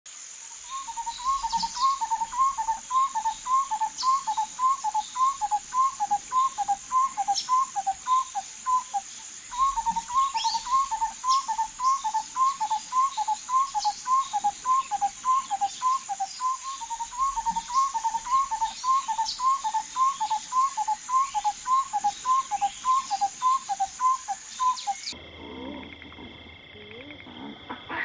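A bird calling in long, fast series of short notes, roughly three a second, in three runs with brief pauses between them, over a steady high insect drone. Near the end the call and the drone stop abruptly, giving way to a quieter, different outdoor background.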